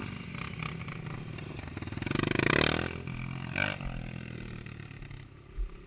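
Motocross dirt bike engine running, revving up in pitch about two seconds in, then fading away.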